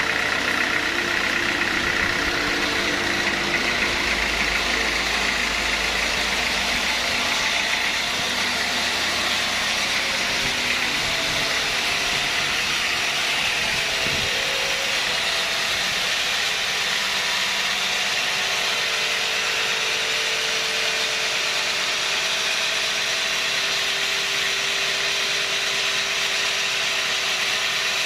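Sawmill machinery running steadily, an engine-like drone with a hiss over it.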